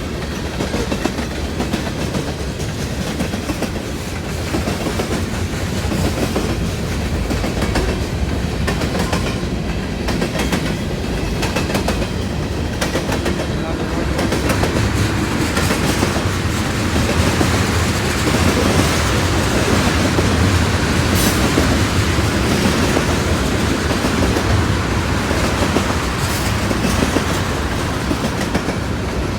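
Freight train cars rolling past, steel wheels clacking over the rail joints with a loud, steady running noise that grows a little louder about halfway through.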